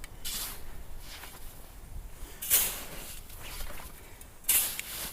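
Snow shovel digging into loose, powdery snow: three short scrapes about two seconds apart, the last two loudest.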